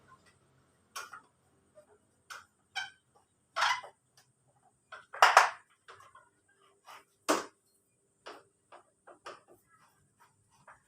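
Hand tools and metal engine parts clinking and knocking, a dozen or so separate irregular clicks, the loudest about five and seven seconds in.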